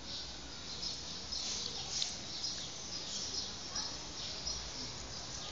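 Birds chirping, with many short high chirps scattered throughout over a steady outdoor background hiss.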